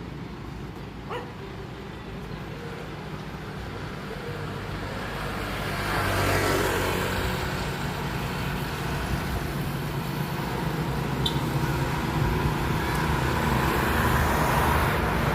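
Road traffic: motor vehicle engine and road noise, growing louder about six seconds in and staying loud.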